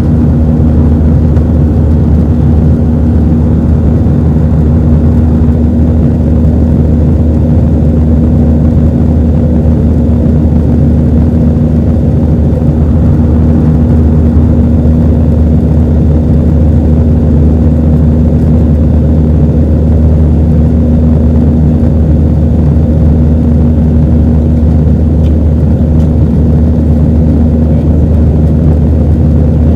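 Steady cabin noise of an Airbus A320-212 in flight, heard from inside the cabin: its CFM56 engines and the airflow make a loud, even rumble with a constant low hum running through it.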